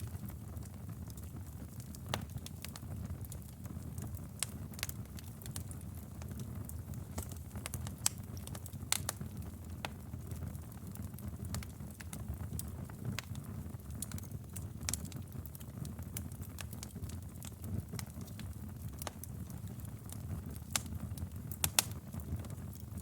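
Wood fire burning in a fireplace, a steady low rumble of flames with irregular sharp crackles and pops, a few louder pops now and then and a cluster of them near the end.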